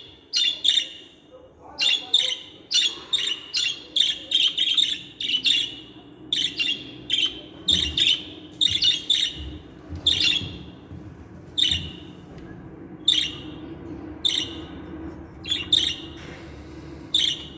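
Budgerigars chirping and warbling: short, sharp, high chirps coming in quick clusters of several a second, with a faint steady low hum underneath.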